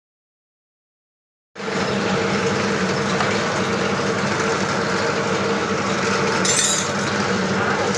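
BMW car engine running steadily with a dense mechanical clatter and a steady hum, starting abruptly after a second and a half of dead silence. A short high hiss comes about six and a half seconds in.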